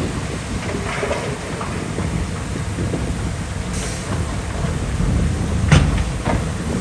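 Heavy diesel earthmoving machinery running with a steady low rumble, with a few metallic knocks and clanks, the sharpest near the end.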